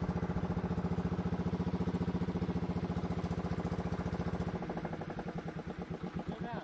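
River boat's engine running with a rapid, even pulse, then slowing and dropping in level about four and a half seconds in, as if throttled back.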